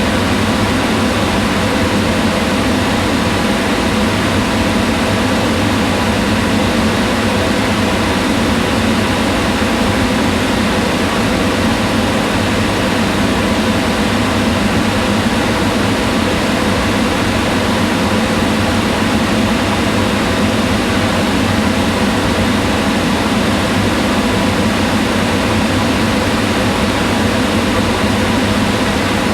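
Kitchen range hood fan running steadily: an even whir with a low hum and faint steady tones.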